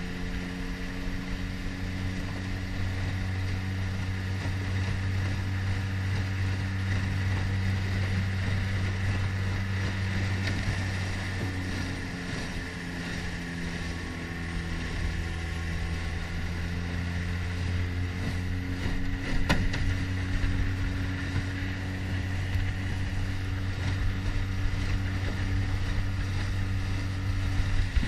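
Mercury 9.9 hp outboard motor running steadily under way on a 14 ft jon boat, its note dipping slightly near the middle, with one sharp click about two-thirds through.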